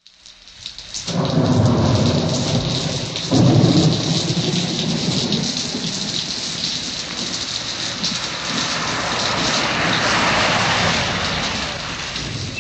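Thunderstorm: heavy rain fading in, with two loud rolls of thunder in the first few seconds, then steady downpour with a softer rumble.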